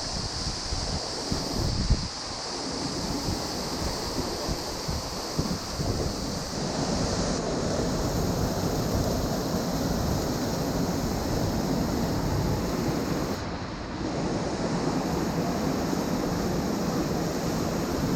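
Steady rush of a hot-spring waterfall's falling water, with wind buffeting the microphone in uneven low rumbles.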